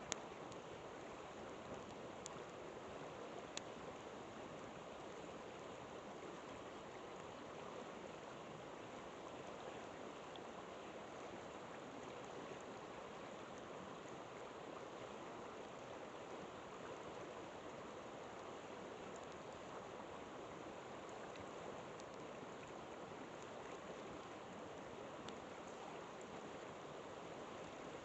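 River water flowing steadily with an even rushing sound. A campfire crackles now and then with a few small sharp pops.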